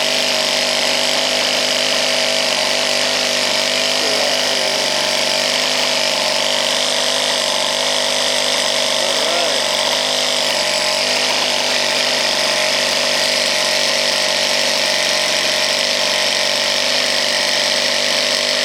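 Small two-stroke gasoline model-helicopter engine, a G20 stroked to 22 cc, running steadily at high speed and driving a propeller on a test stand. The pitch holds even throughout, a sign that the engine survived the crash and runs well.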